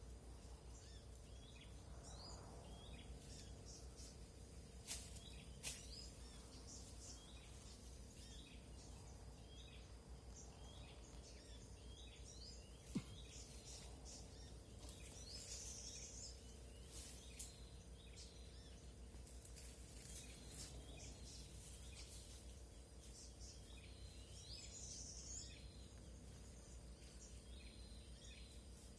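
Faint bird chirps in forest: short calls repeating about once a second through the first half, with a few scratchier high calls later on and a few sharp clicks.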